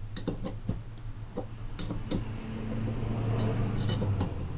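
Metal tools and parts clinking in scattered light clicks as a nut is tightened on a Model T engine fan assembly. A steady low hum runs underneath and swells slightly in the middle.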